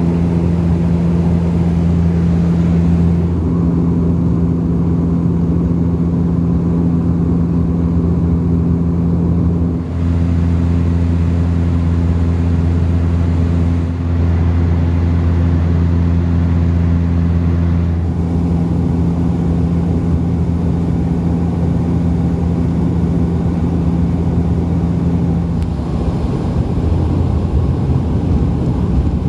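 Dash 8 turboprop's propellers and engines heard from inside the cabin: a loud, steady, low drone of several humming tones over airflow noise, its tone shifting a few times as power or the recorded segment changes.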